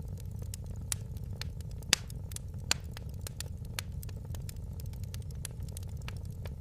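Wood fire crackling: irregular sharp pops and snaps, a couple of them louder about two seconds in, over a steady low rumble of burning.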